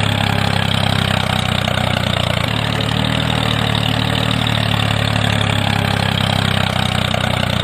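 A motor running steadily with an even, engine-like hum.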